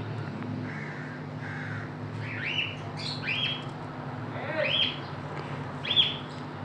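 A bird chirping repeatedly, about six short calls that rise and fall, starting about two seconds in, over a steady low hum.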